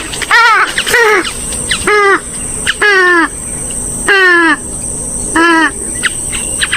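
Swamphen and moorhen calls: a loud series of pitched calls, each dropping in pitch, about one a second, with a couple drawn out longer near the middle.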